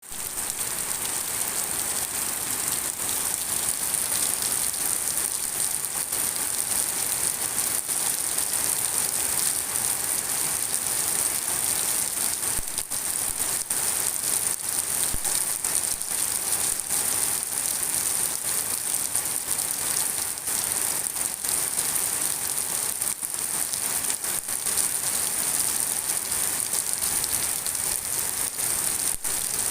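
Steady rain falling and pattering on a surface, a dense even hiss with many small drop ticks.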